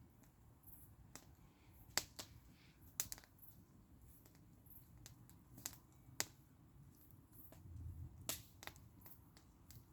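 Campfire wood crackling: sharp, irregular pops and snaps, about a dozen spread unevenly, the loudest about two, three and six seconds in, over a low, steady rumble.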